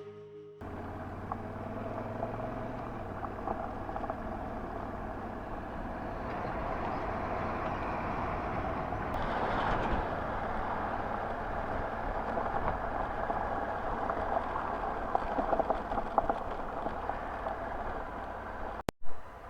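Honda Africa Twin's parallel-twin engine running while riding, mixed with steady wind and road noise. The sound swells briefly near the middle and cuts off abruptly near the end.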